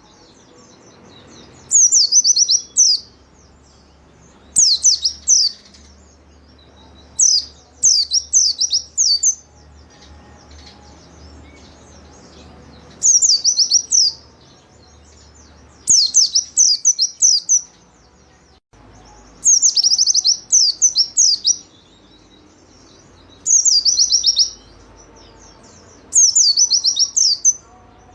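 Pleci (white-eye) singing: short phrases of rapid, high, falling twittering notes, each about a second long, repeated every two to three seconds.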